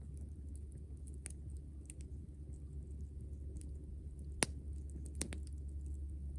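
Wood campfire crackling, with scattered sharp pops at irregular intervals; the loudest comes about four seconds in, followed by a quick double pop. A steady low hum runs underneath.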